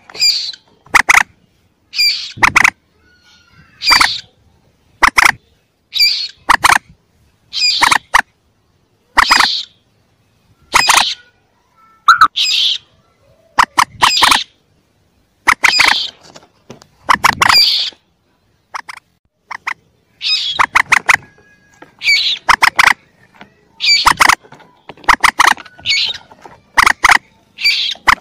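Young mandar (rail) calls from a hunter's lure recording: short, sharp, high calls repeated about once a second, often in quick pairs or triples.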